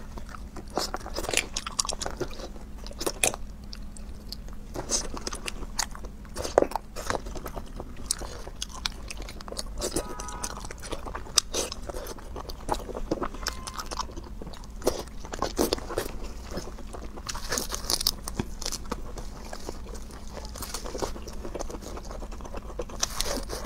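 A person eating close to the microphone: biting, chewing and crunching food, with many short sharp clicks at irregular intervals.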